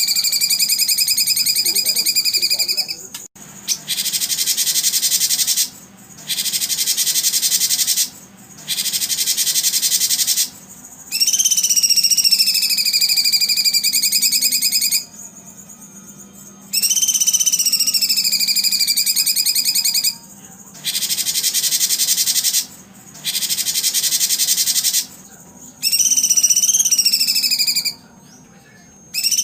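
Edited recording of bird sounds. Long whistled calls that dip in pitch and then hold steady, each three to four seconds long, alternate with blocks of a dense, fast buzzing trill. Each segment starts and stops abruptly.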